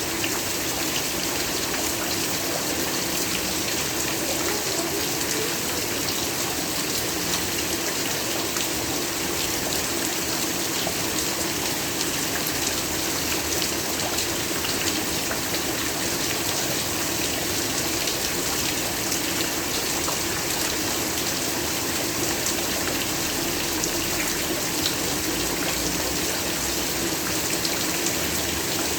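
Steady heavy rain, a dense even patter of countless drops with no let-up.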